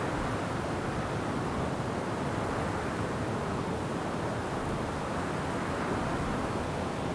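Wind rushing steadily through forest trees: an even, unbroken noise without distinct gusts, drops or bird calls.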